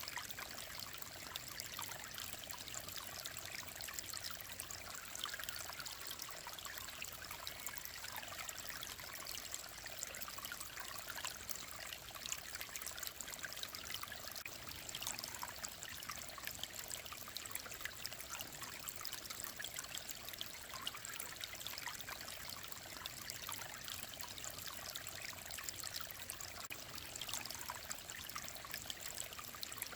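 Mountain valley stream flowing steadily: an even trickling babble of water, more hiss than rumble, that does not change.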